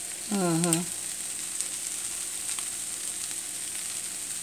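Shrimp, broccoli and cauliflower frying in a wok: a steady sizzling hiss with small crackles. About half a second in, a person gives a short, wavering hum.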